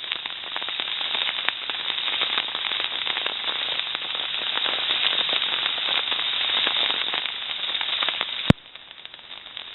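Heavy rain pattering densely, a thick crackle of countless drops. Near the end a single sharp click, after which the rain is quieter.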